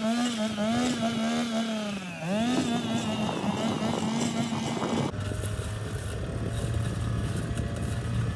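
An engine running under varying load, its pitch wavering and dipping sharply once before picking up again. About halfway through it cuts suddenly to a steadier, lower-pitched engine note.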